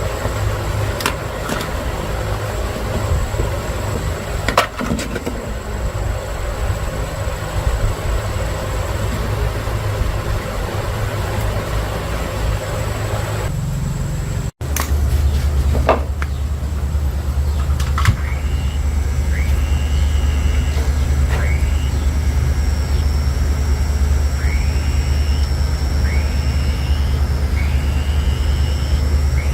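Steady low hum of a running machine. After a sudden break about halfway, a louder, deeper hum carries on, with a series of short chirps above it.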